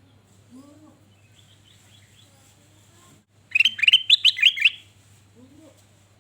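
A kutilang emas (golden bulbul) singing one quick, loud phrase of about nine chirping notes, lasting just over a second a little past halfway.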